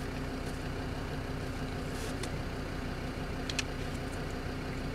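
A vehicle's engine idling steadily, heard from inside the cab.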